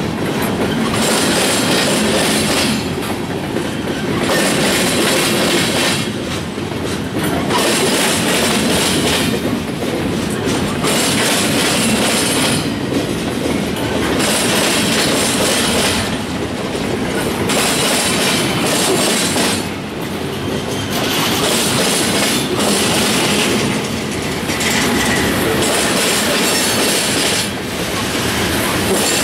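Freight cars rolling past close by: steel wheels rumbling and clacking over the rail joints, the sound swelling and dipping every few seconds as each car goes by.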